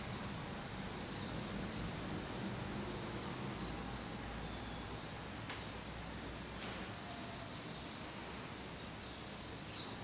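A bird chirping in the background: two runs of quick, very high-pitched notes, about half a second in and again from about five and a half seconds, with a few short whistles between, over a steady low hum.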